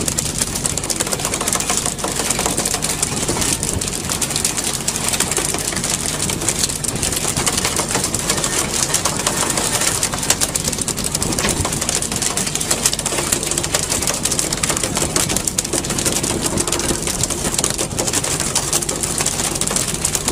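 Fishing boat's engine running steadily under a constant rush of wind and sea.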